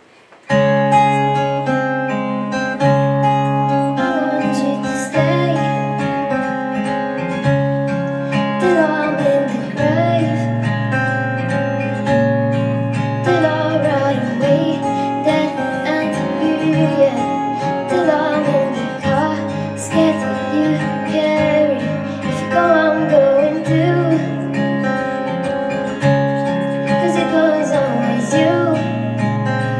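Acoustic guitar playing a strummed, plucked song intro, with a wavering melody line over it from about nine seconds in.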